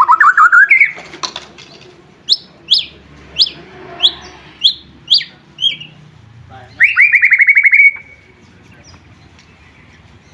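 White-rumped shama (murai batu) singing: a fast rising trill, then a string of about eight sharp down-slurred whistles, then another fast trill about seven seconds in.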